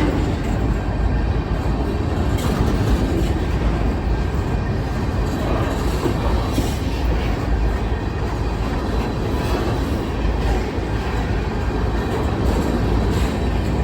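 Freight train of covered-hopper grain cars rolling past: a steady rumble of steel wheels on rail, with occasional clacks as wheels cross rail joints.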